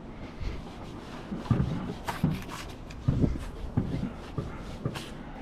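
Tools and engine parts being handled on a workbench: irregular light metallic clicks and knocks, a few dull thuds, and rubbing.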